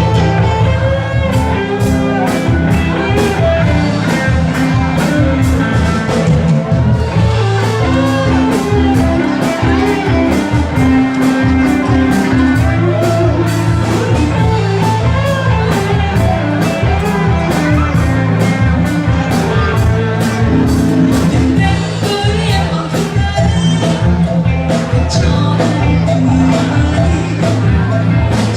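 A live band playing a pop song with a steady drum beat, bass and electric guitar, with singing at times.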